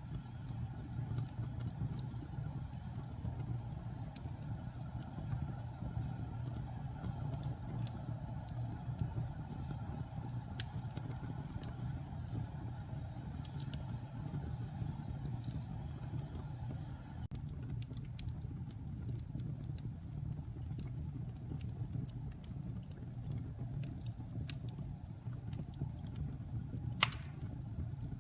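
Wood fire crackling: scattered small pops and snaps over a steady low rumble of the flames, with one sharper, louder pop near the end.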